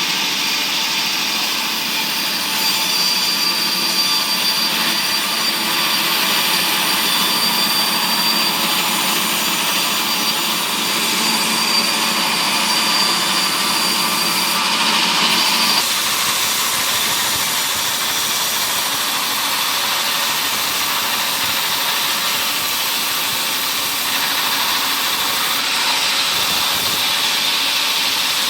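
Wood-processing machinery running steadily, with a whining tone that stops a little over halfway through.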